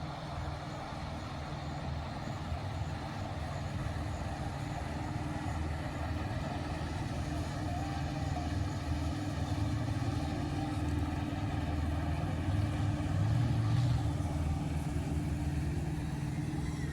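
Motorboat engine droning steadily, slowly growing louder as the boat passes and loudest about three-quarters of the way through.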